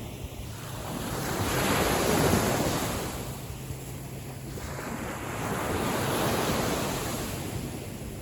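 Small waves of a calm sea washing in, swelling and falling twice, loudest about two seconds in and again about six seconds in, with wind rumbling on the microphone.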